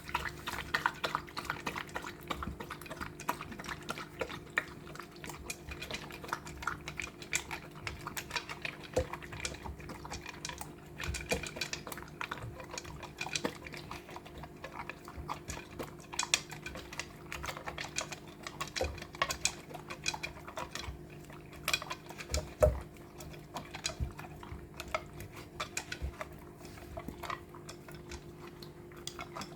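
Golden retriever eating its lunch from a bowl: a continuous run of small crunches, clicks and clinks of the bowl as it eats.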